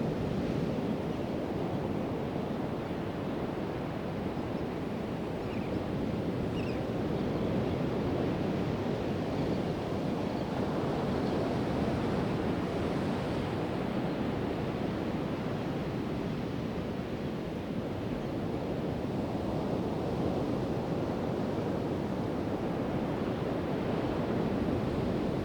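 Pacific Ocean surf breaking on the beach: a steady rushing wash of waves that slowly swells and eases. A couple of faint, short high chirps about six seconds in.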